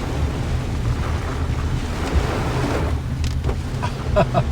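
Wind buffeting the microphone, a heavy steady rumble over a rushing hiss of rain and water, with a few short high notes about four seconds in.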